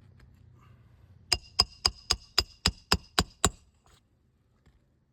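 Roofing hammer striking a nail on an asphalt-shingle roof: nine quick ringing metal strikes, about four a second, starting a little over a second in and then stopping.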